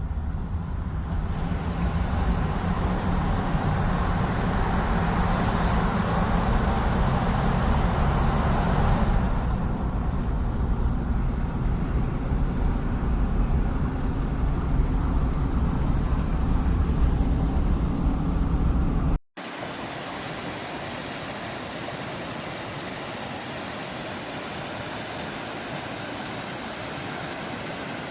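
Car driving, with a steady rumble of road and engine noise. About two-thirds of the way through it cuts off abruptly and gives way to a quieter, steady, even hiss.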